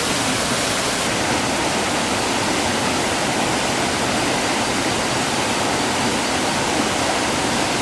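Steady, loud rush of falling water from a waterfall or fast mountain stream.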